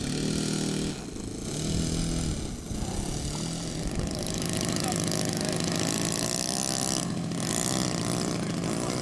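Radio-controlled model airplane engine running, a steady buzzing drone. From about halfway, its pitch swings up and down as the plane passes.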